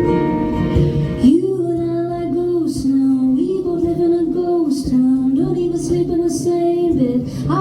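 Live performance of a song: guitar playing, then about a second and a half in a woman's voice comes in singing over it, with long held notes.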